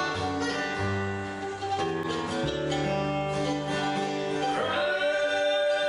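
Acoustic bluegrass band with guitar and double bass playing a slow instrumental passage, with a lead note sliding up twice near the end.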